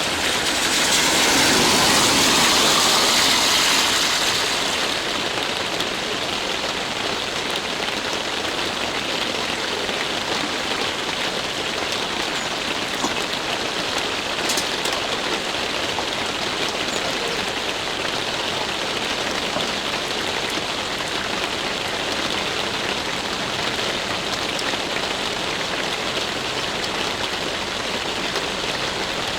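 Steady rain-like hiss, with a louder, brighter swell in the first few seconds that settles by about five seconds in.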